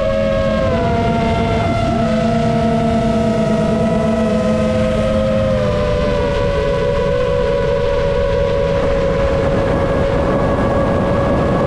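Motors and 7-inch propellers of an FPV quadcopter whining in flight: several close pitches held steady, dipping and rising slightly a few times as the throttle changes, over a low rush of wind noise.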